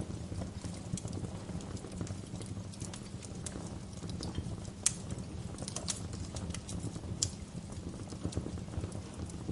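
Wood fire burning in a fireplace: a steady low rumble of the flames with irregular sharp crackles and pops, two louder snaps about halfway through.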